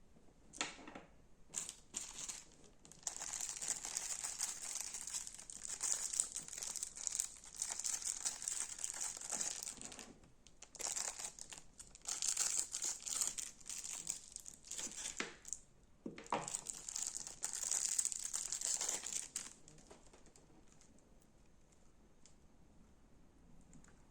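Slime being squeezed and kneaded by hand, giving off dense crackling and crinkling in three long stretches with short pauses between.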